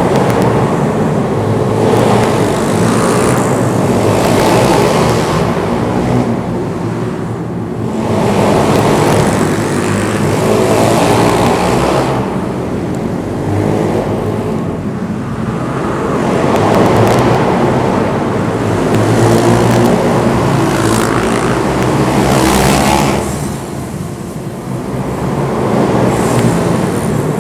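Small pit bike engine revving hard and backing off over and over while being ridden, its loudness rising and falling every few seconds.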